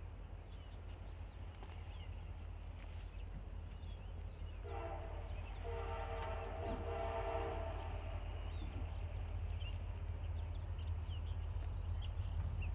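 Diesel locomotive horn on the approaching CSX Office Car Special sounding one multi-note blast of about three seconds, starting about five seconds in. Under it is a steady low rumble from the train that slowly grows louder.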